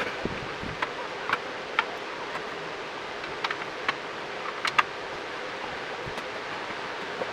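Scattered light clicks and taps from hand work refitting a motorcycle's headlight and plastic front cowl, a few over several seconds with a pair close together just before the five-second mark, over a faint steady hum.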